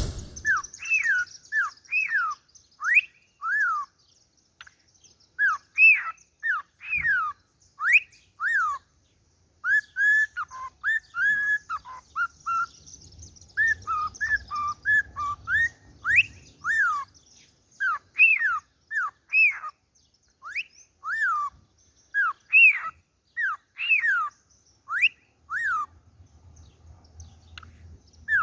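Harlequin (pied) cockatiel singing: a long string of clear whistled notes, most sliding down in pitch, about one a second with short pauses. Partway through comes a quicker run of short chirpy notes.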